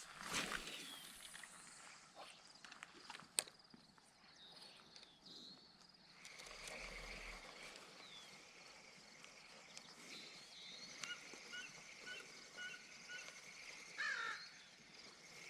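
Faint outdoor ambience with a few soft clicks and a series of short, high chirps about two-thirds of the way through.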